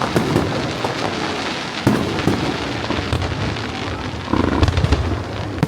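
Fireworks display: a dense run of crackling pops, with a sharper bang about two seconds in and a busier flurry of pops about four seconds in.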